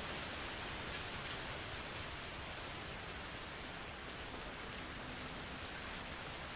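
Steady rain falling in a continuous, even hiss, with no thunder clap.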